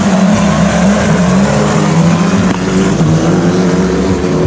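Loud car engine running at steady, held revs, its pitch stepping down a little about halfway through.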